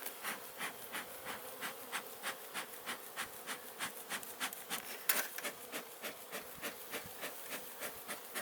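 Bee smoker bellows pumped over and over, about three puffs of air a second, to keep the smoker's fuel from going out. Honeybees hum around the open hive underneath.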